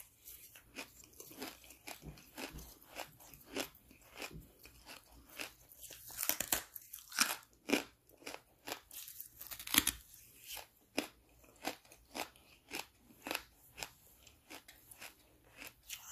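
Hard charcoal bitten and chewed close to the microphone: a run of sharp, dry crunches, a few each second, with the loudest crunch a little after halfway.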